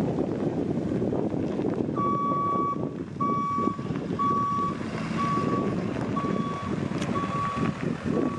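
Truck reversing alarm beeping steadily about once a second, starting about two seconds in, over wind noise on the microphone and a low rumble.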